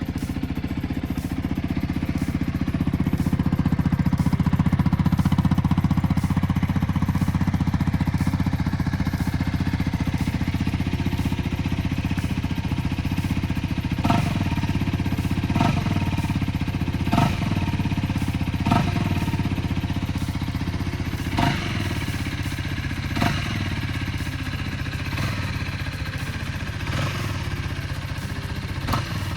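A Honda CL250's single-cylinder engine idles steadily through its exhaust. About halfway in, a series of short throttle blips starts, one every second or two.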